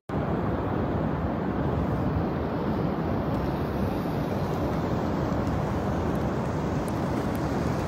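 Strong wind blowing across the microphone: a steady, low rush of noise that starts suddenly at a cut.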